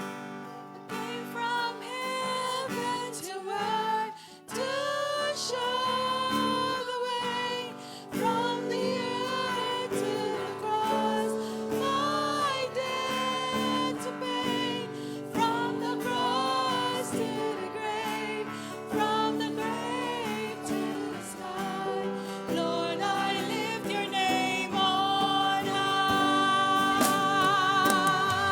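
Worship song: a woman singing a slow melody over sustained chords, with guitar accompaniment.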